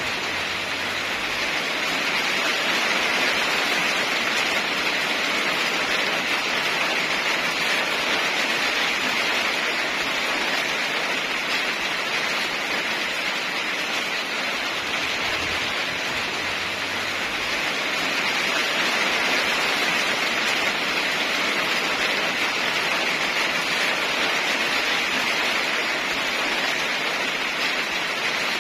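Heavy rain falling steadily: a dense, even hiss that swells and eases slightly but never stops.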